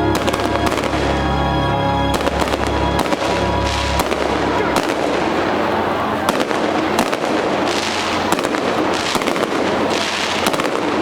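Fireworks bursting and crackling in rapid succession, many reports close together. Music plays along with them for the first four seconds or so, then fades out.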